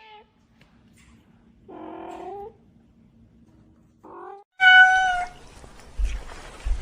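A cat meowing four times: a short call, a longer lower meow that rises in pitch, another short one, then a loud, higher meow held steady. Rustling and soft knocks follow near the end.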